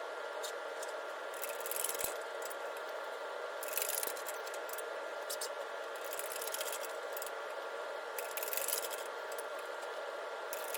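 Light metallic rattling and scraping from a shop press working a steel panel into a 3D-printed mold, over a faint steady hum. A few short scratchy bursts come about 1.5, 4, 5 and 8.5 seconds in.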